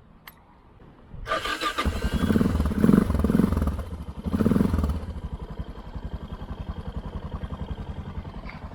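Adventure motorcycle engine, which had died and stalled, turned over on the electric starter about a second in, catching and being revved several times, then settling into a steady idle.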